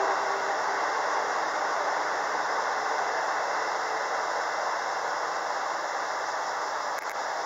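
JR 285 series seven-car electric train (the Sunrise sleeper set) departing and moving away, a steady running noise that slowly fades as it recedes.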